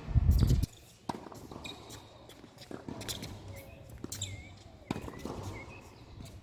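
A tennis ball bouncing and shoes scuffing on the court, heard as scattered short knocks, with small birds chirping. A loud low rumble fills the first half-second.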